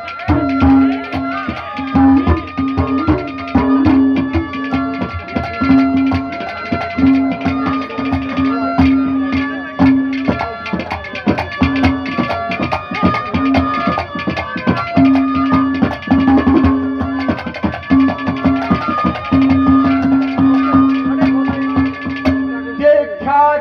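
Live Haryanvi ragni band playing an instrumental interlude: a fast, steady hand-drum rhythm under a melody of held notes. A voice comes in near the end.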